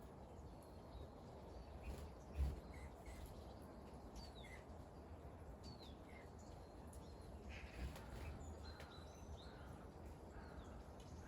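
Faint outdoor ambience: a low steady rumble with scattered short bird chirps, and one dull thump about two and a half seconds in.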